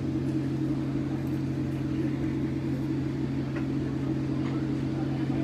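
Steady low hum of running engine machinery, holding an even drone with no change in pitch or level.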